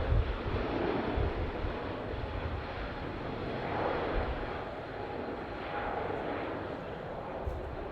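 Jet airliner engines, a steady rushing rumble that slowly eases off.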